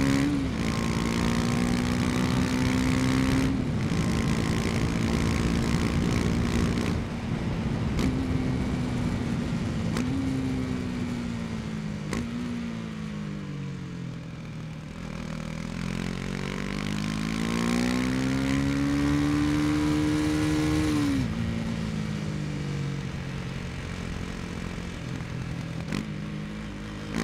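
The single-cylinder engine of a KTM 250 Duke motorcycle running under way. Its note holds steady with a few brief dips, falls for a few seconds around the middle as the bike slows, then climbs for several seconds and drops sharply at a gear change.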